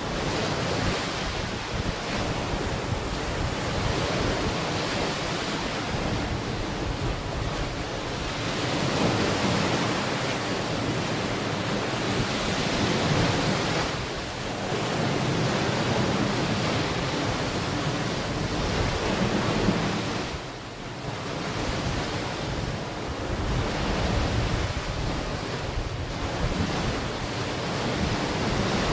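Ocean waves breaking and washing onto a beach, the surf swelling and easing every few seconds, with sea breeze buffeting the microphone.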